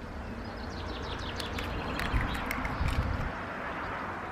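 Wind buffeting the microphone in a steady low rumble, with a run of faint light ticks in the middle.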